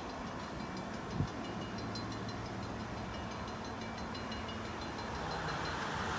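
Excursion train running: a steady low engine hum with rapid light ticking. A hiss builds near the end.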